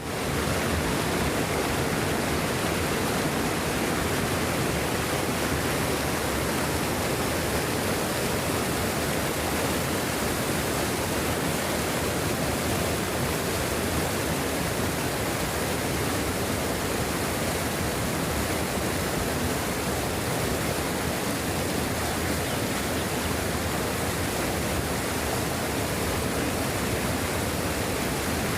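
Steady rushing water, an even, unbroken roar spread from low to high pitch with no changes.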